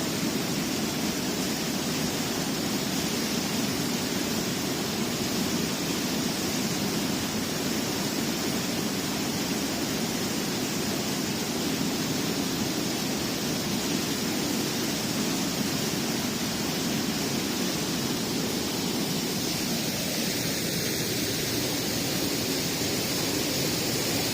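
Steady, even rushing noise with no change throughout.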